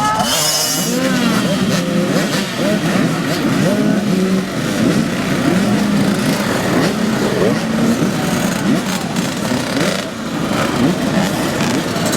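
Several small 50cc and 65cc two-stroke motocross bikes revving together, many engine notes rising and falling over one another.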